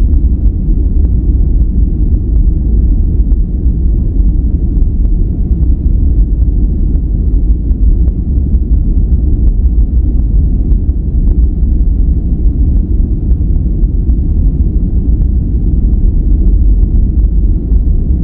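Steady synthesized noise track for sleep, weighted heavily toward the low end: a deep, even rumble with little above a few kilohertz and no changes.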